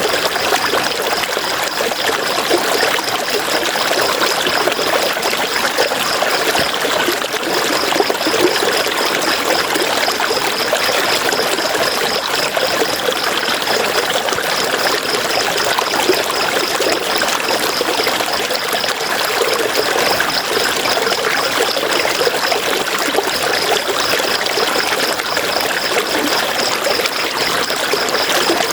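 River water rushing and splashing over rocks in a steady, unbroken wash. A fast, high-pitched pulsing tone runs over it, breaking off briefly a few times.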